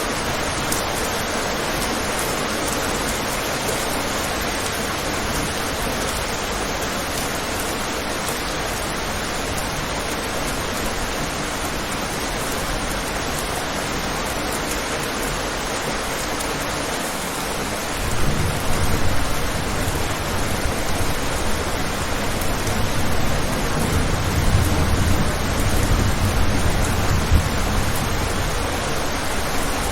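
Steady, even hiss of heavy rain. About halfway through a low thunder rumble sets in suddenly and rolls on, swelling to its strongest near the end.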